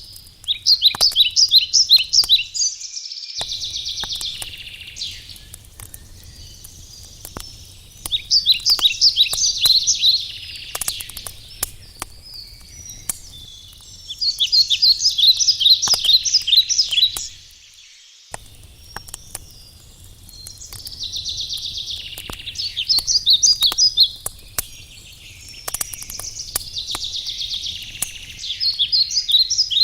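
A songbird sings the same short phrase of rapid high notes over and over, about every six seconds. Beneath it a wood fire crackles with scattered small snaps.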